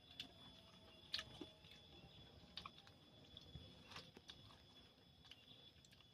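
Faint close-up chewing of raw fruit, with a few scattered crisp clicks and crunches.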